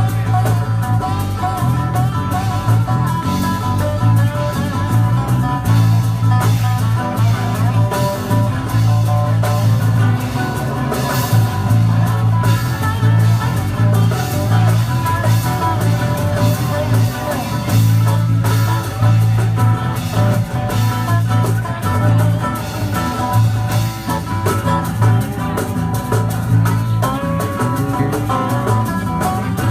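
Rock band playing live in an instrumental stretch: guitar over a steady bass and drum kit.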